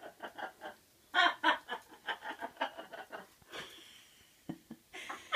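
Pet bird chattering in a quick run of short calls, followed by a brief rustle and a few sharp clicks.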